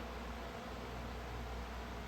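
Electric fan running: a steady, even whoosh of moving air with a low hum underneath.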